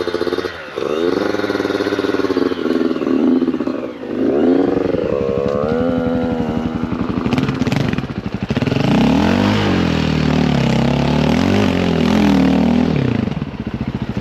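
Dirt bike engines revving, their pitch rising and falling again and again as the bikes ride on a muddy trail, with a brief clatter about halfway through.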